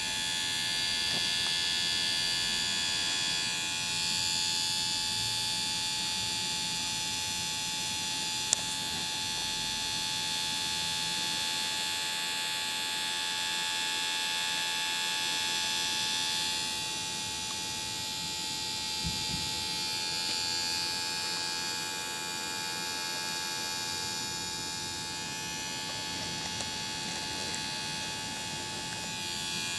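Steady high-pitched whine of small electric motors and gearing, swelling and easing slowly, with a single sharp click about eight seconds in.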